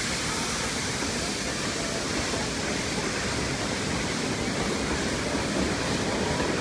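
Steady rushing rumble of a narrow-gauge train's carriages rolling past over a wooden trestle bridge, growing slightly louder near the end.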